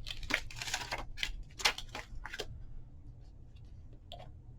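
Paper crafting materials being handled: a quick run of crisp rustles and snips over the first two and a half seconds, then a few faint ticks and one small knock near the end.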